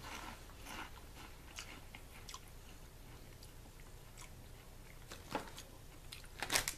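Two people chewing crunchy round takoyaki-flavoured corn puff snacks with their mouths closed: faint scattered crunches, with a few louder crunches about five seconds in and near the end.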